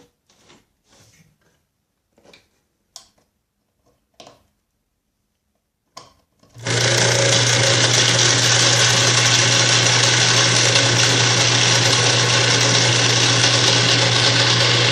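Small electric motor spinning a homemade toroidal generator: it switches on abruptly about six and a half seconds in and runs steadily with a strong low hum. Before that, a few faint handling clicks and knocks.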